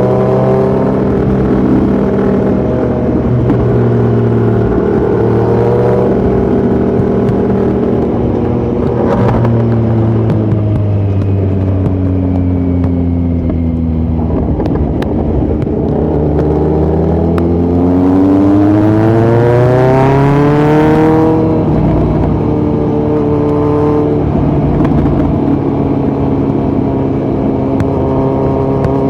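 2018 Kawasaki Z900's inline-four engine through a Yoshimura muffler and Delkevic headers with no dB killer, ridden on the road. The note holds steady, falls for a few seconds as the bike slows, then climbs steeply in pitch under hard acceleration. About three-quarters of the way through it cuts off sharply as the throttle closes or the rider shifts, and it then settles back to a steady cruise.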